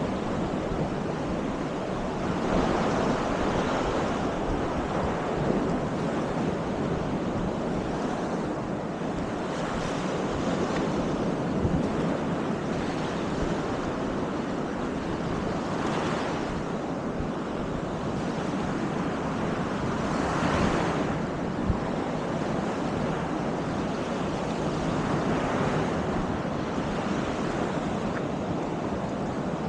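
Baltic Sea surf washing onto the beach, a steady rush of noise that swells every few seconds as waves break, with wind rumbling on the microphone. A single short click about two-thirds of the way through.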